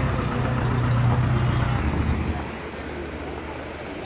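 A nearby motor vehicle's engine running with a low rumble, which drops away about two and a half seconds in, over steady city street traffic noise.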